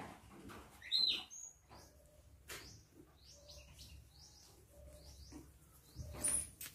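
Small birds chirping: a few short high chirps about a second in, then a run of quick falling chirps a couple of seconds later. A brief rustle near the end.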